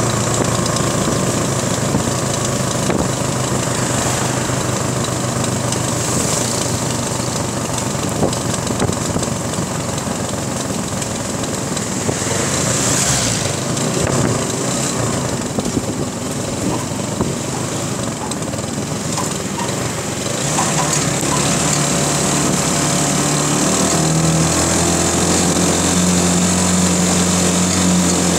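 Small motorcycle engines running steadily while riding, with wind noise over the microphone. The engine note rises and grows fuller about two thirds of the way through and stays there.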